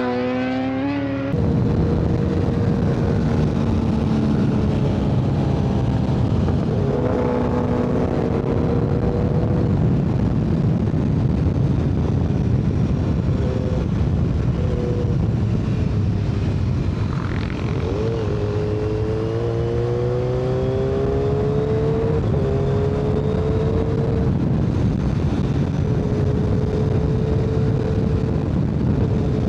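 Superbike engine running at road speed, its pitch climbing and dropping several times as the rider accelerates and eases off, under heavy wind and road rush on the rider's microphone.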